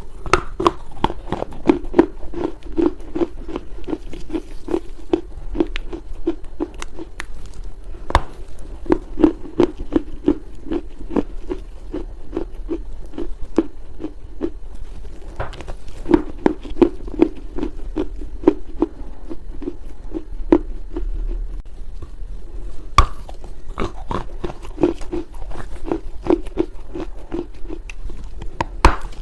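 Chinese loess (dry clay earth) being bitten and chewed close to the microphone: a dense run of soft crackly crunches over a quick, regular chewing rhythm, with a couple of short pauses.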